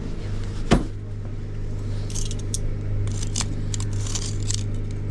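Steady low drone of a cruise boat's engine. A single sharp knock comes just under a second in, followed by a run of light crackling and rattling clicks from about two seconds in.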